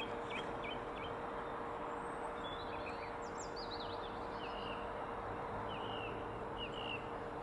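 Small birds calling over a steady background hum: a quick run of chirps at the start, then scattered short calls and a few falling notes.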